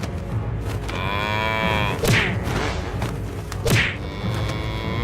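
Cow mooing: one long call that rises and falls about a second in, and another starting near the end, with two sudden sharp hits in between.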